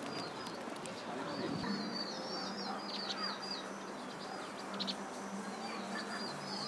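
Small birds chirping in quick runs of short, high twitters, with a steady low hum underneath that starts about two seconds in.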